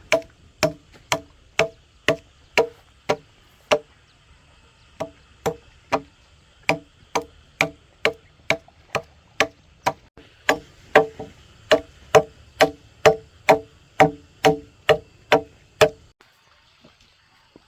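A blade chopping into wood or bamboo, about two sharp strokes a second, each with a short ringing knock. The strokes pause briefly about four seconds in and stop a little before the end.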